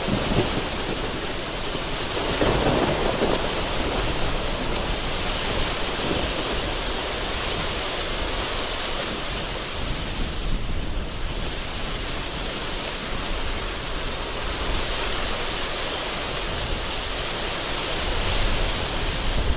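Heavy rain falling steadily in a thunderstorm, with thunder rumbling low underneath, most strongly a few seconds in.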